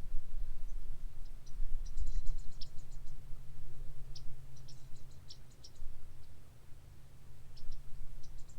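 Wind rumbling on the microphone, with scattered short high-pitched chirps and clicks in bursts throughout.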